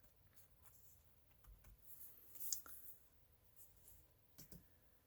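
Near silence with faint, scattered clicks and light paper rustling as small paper pieces are handled and pressed down, with one sharper click about halfway through.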